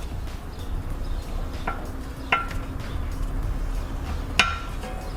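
Three sharp metallic clinks, each with a brief ring, about a second and a half in, a little after two seconds and, loudest, near the end: metal hand tools knocking against the steering knuckle while a stuck ABS wheel-speed sensor is worked loose.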